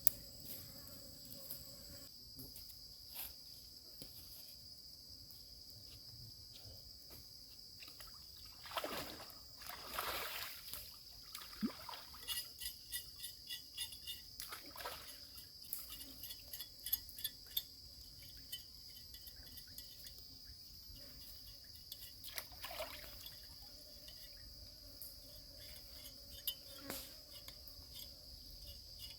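Insects chirring in a steady high-pitched drone, with scattered light clicks and knocks and a few brief swishing noises near the middle.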